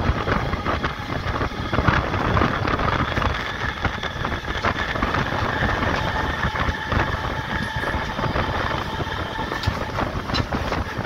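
MEMU electric passenger train running at speed, heard from on board: a steady rumble and clatter of wheels on the rails, with a faint steady whine above it.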